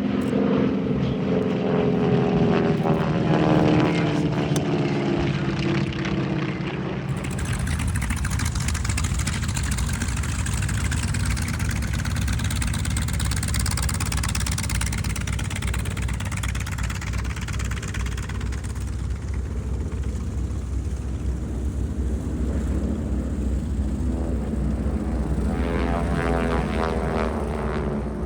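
Piston engines and propellers of a formation of WWII-era trainer planes (T-6s, T-28s, T-34s) droning as they fly past, the engine pitch falling during the first few seconds. A low, steady engine rumble follows, and the propeller drone comes back near the end.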